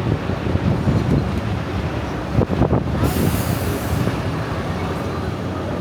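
Urban vehicle traffic rumbling steadily, with a few knocks about two and a half seconds in and a brief high hiss lasting about a second just after.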